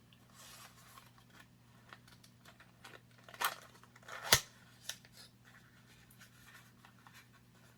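Small product packaging being handled: faint rustling and scraping, then a few short sharp clicks and taps, the loudest just over four seconds in.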